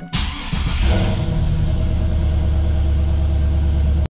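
A Trans Am's LS1 V8 cranking for under a second, then catching and running at a steady idle, heard from inside the car. It starts after the fuel system has been re-primed following a fuel filter change. The sound cuts off abruptly near the end.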